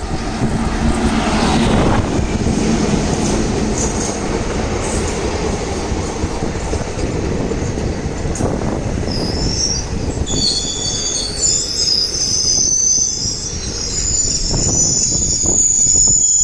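Indian Railways express train hauled by an electric locomotive running through at speed. The locomotive passes in the first couple of seconds, then the coaches go by with a steady loud rush and rumble of wheels on the rails. High-pitched wheel squeal comes in from about nine seconds on.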